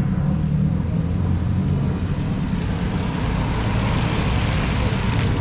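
Car engine idling close by, a steady low hum with a hiss that swells in the middle.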